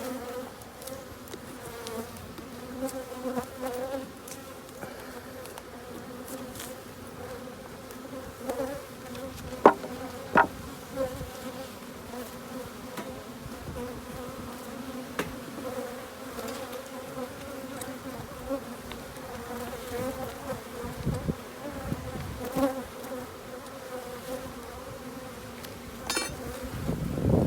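Honeybees buzzing in a steady hum around an opened hive, with two sharp clicks about ten seconds in.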